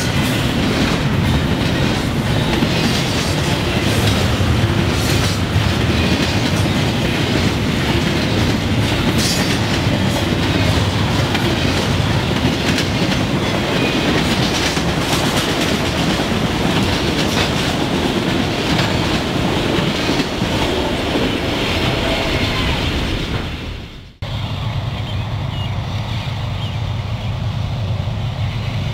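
Freight train cars, double-stack container well cars and an autorack, rolling past at close range: a steady rumble of steel wheels on rail with scattered clicks and clanks. About 24 seconds in, the sound drops out sharply and a quieter steady rumble follows.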